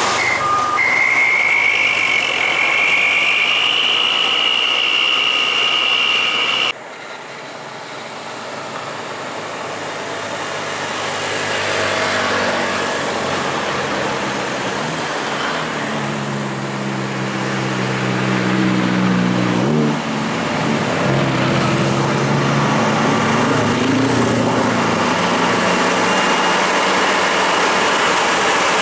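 Heavy truck's diesel engine pulling a load. Its pitch climbs slowly and drops sharply about twenty seconds in, as at a gear change, then it runs steadily. A steady high whine in the first seconds cuts off abruptly.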